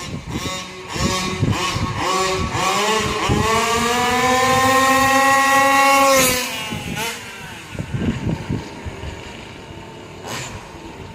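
Small 36cc two-stroke engine of a Rovan 5T RC truck, blipped a few times, then revved up in a rising whine and held at high revs for about three seconds before dropping back to irregular blips and lower running.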